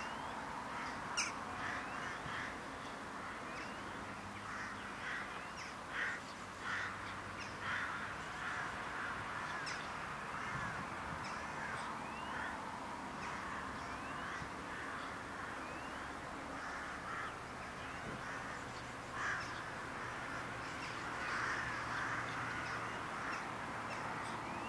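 Birds calling: scattered short calls and thin high chirps over a steady background hiss.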